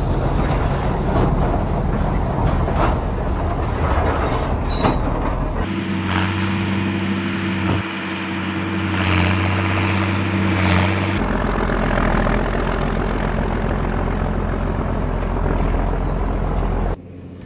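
Farm tractor engine running, heard in several short cuts. One cut carries a steady engine hum, and a few single clunks sound over the running noise in the first few seconds.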